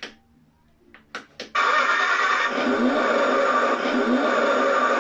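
A few sharp clicks, then about one and a half seconds in a loud, steady engine-like sound effect from the ride-on toy car starts suddenly and runs on unchanged until it cuts off sharply.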